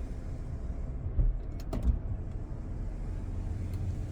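A few sharp plastic clicks from switches or a compartment in a pickup's overhead console, the loudest pair about two seconds in, over a steady low hum inside the cab.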